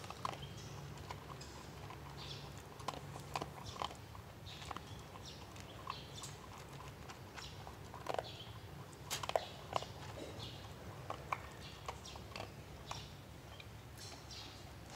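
A dog chewing and biting its food: irregular short clicks and snaps. The loudest come in a cluster about two thirds of the way through.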